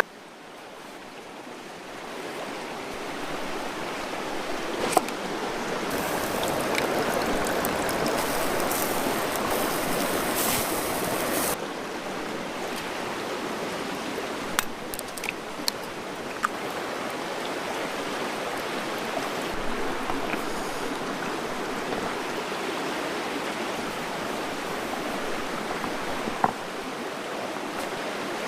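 Running water of a stream, a steady rushing that swells over the first few seconds and then holds, with a few sharp clicks on top.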